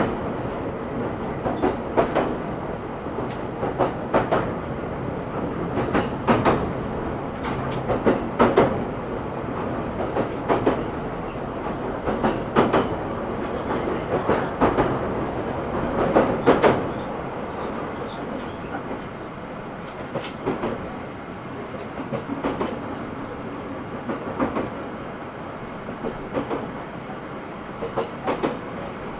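E127 series electric train heard from inside the car while running: a steady rumble with the wheels clicking over rail joints in pairs about every two seconds. The sound gets quieter about two-thirds of the way through.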